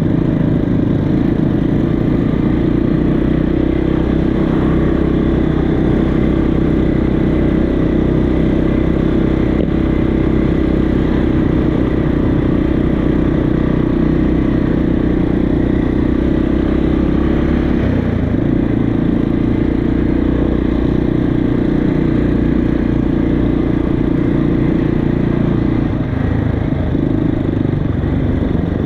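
Motorcycle engine running steadily, with a small change in its note about two-thirds of the way through.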